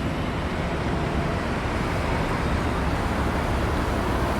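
Buses passing in traffic: steady engine and tyre noise that grows slowly louder.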